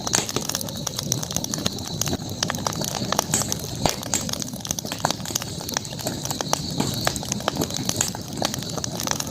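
Campfire crackling, with many small irregular pops and snaps, over a steady high-pitched background hum.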